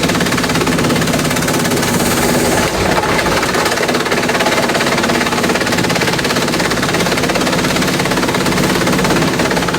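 Industrial bamboo shredder running loud and steady, a dense rapid crackle of bamboo being broken up over the machine's constant hum.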